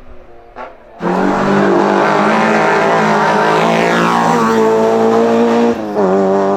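Hill-climb race car engine at full throttle, bursting in suddenly about a second in and holding high, steady revs, with a brief lift of the throttle near the end before it pulls again.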